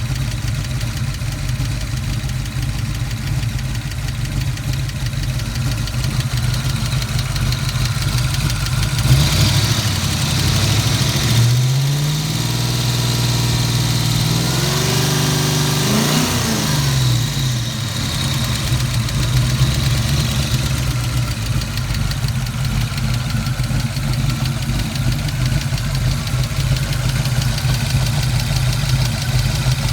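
1986 Ford Mustang GT's 5.0-litre V8 idling with a tick. The engine is revved briefly about nine seconds in, then held at higher revs for several seconds around the middle before dropping back to idle. The noise came on after the engine lost much of its oil through a leak, and the owner is unsure whether it is rod knock or a lifter tick.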